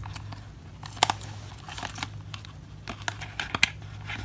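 Eyeshadow palette packaging being handled and opened: crinkling with scattered sharp clicks and taps, the loudest about a second in and a quick run of them near the end, over a steady low hum.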